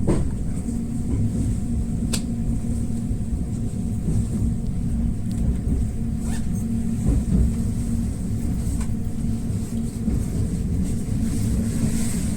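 Steady low rumble of a train running along the line, heard from inside the carriage, with a faint steady hum and a few light clicks from the wheels on the track.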